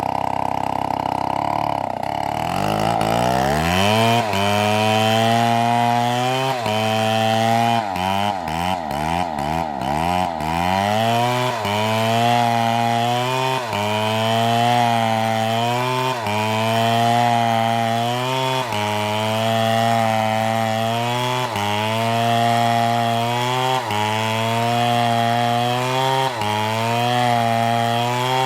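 STIHL MS720 two-stroke chainsaw idling, then revved up about two seconds in and cutting into a palm trunk. Its pitch dips and recovers about every two seconds as the chain bites into the wood.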